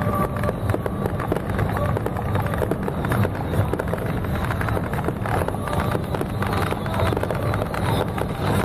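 Fireworks crackling continuously: a dense run of small pops close together, over a steady low rumble.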